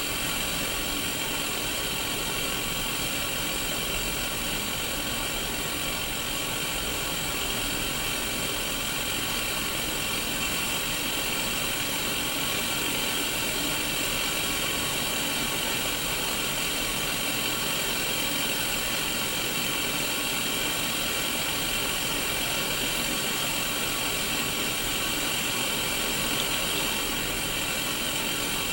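Static hiss from a Sony Mega Watchman pocket black-and-white CRT TV tuned to no station: a steady, even white noise with no change.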